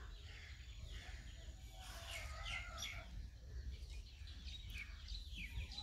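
Faint birds chirping: quick runs of short falling chirps about two seconds in and again near the end, over a low steady background hum.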